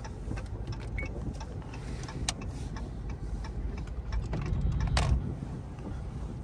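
Dodge Charger R/T's 5.7 Hemi V8 running at low speed, a low rumble heard inside the cabin, with scattered light clicks and rattles and a louder noise about five seconds in.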